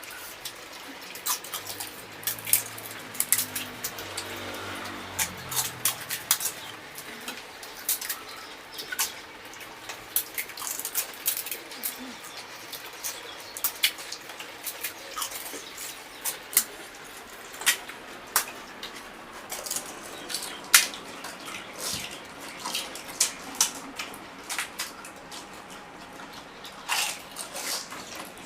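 Pani puri being eaten fast: crisp puri shells cracking and crunching in many sharp, irregular snaps, with wet chewing and slurping of the spiced water.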